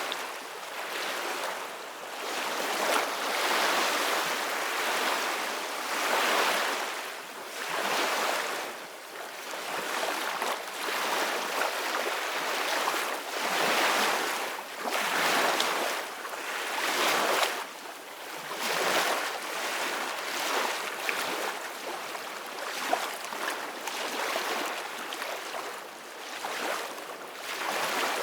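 Sea waves washing and splashing in repeated surges every two to three seconds, with wind.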